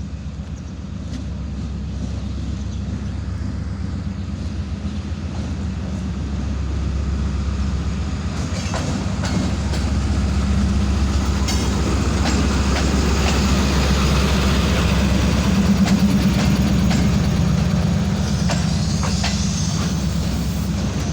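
Pakistan Railways ZCU-30 diesel-electric locomotive hauling a passenger train into a station. The engine's low drone grows louder until about three-quarters of the way through, with rail clatter over it.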